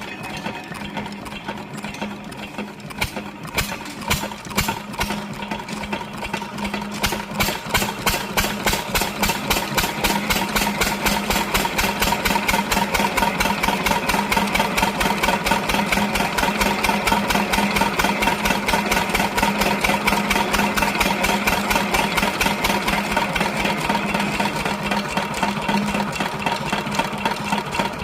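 15 hp diesel engine running with a regular pulsing firing beat. It picks up speed and gets louder about seven seconds in, then runs steadily.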